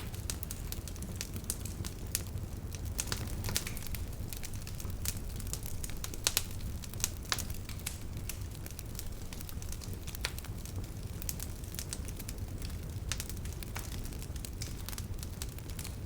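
Wood campfire burning: irregular sharp crackles and pops of the burning wood, several louder snaps among them, over a steady low rumble.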